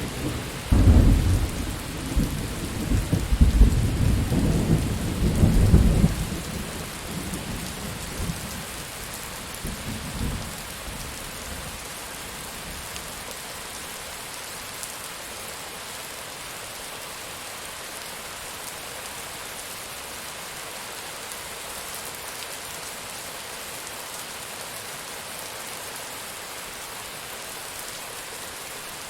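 Thunderstorm: thunder rolls and rumbles for the first several seconds, a fainter rumble follows a few seconds later, then steady heavy rain hisses on.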